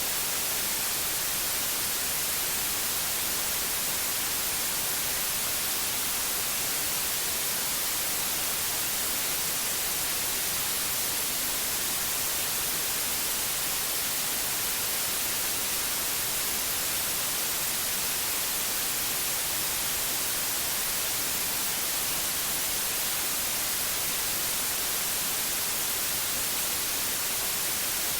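Steady white noise: an even, unbroken hiss, brightest in the high treble, with no change or events.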